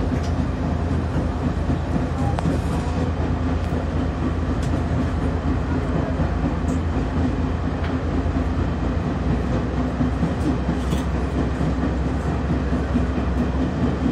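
Train running through a rail tunnel: a steady rumble of wheels on track with a low hum and a few faint clicks.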